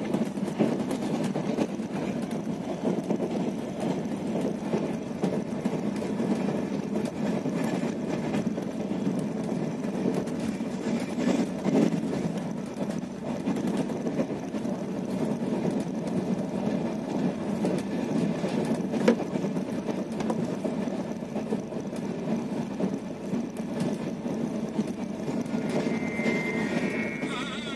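Passenger train running along the track, heard from inside the coach: a steady rumble of wheels on rails with scattered clicks and knocks.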